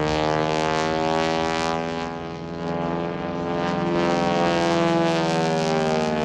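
Propeller drone of North American T-6 Texan aerobatic planes with radial engines flying past, swelling and fading in loudness. The pitch sinks slightly near the end.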